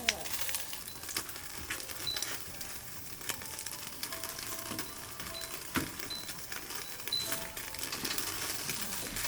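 Wood fire crackling, with irregular sharp pops and snaps scattered through it.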